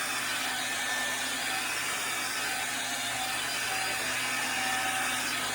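Swiffer Sweep and Vac cordless stick vacuum running steadily as it is pushed back and forth over a hard floor, a continuous motor whir with a faint steady hum.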